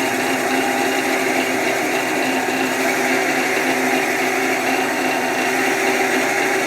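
Wood lathe running steadily while a 1.5-inch Forstner bit bores into the spinning wooden workpiece, drilling a tea-light recess.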